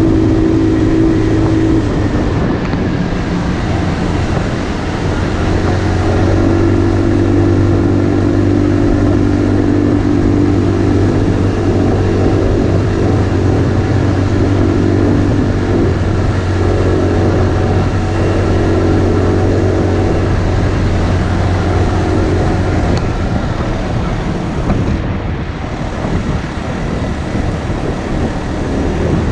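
Motorcycle engine running at fairly steady revs while riding, over a steady rush of wide noise. The engine note drops away about three-quarters of the way through, leaving mostly the rushing noise.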